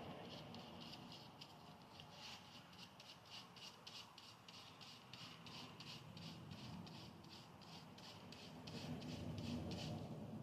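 Faint rubbing and handling as hands work a rubber water seal into its groove on a Mazda 13B rotary engine housing, under a steady light ticking of about three to four ticks a second.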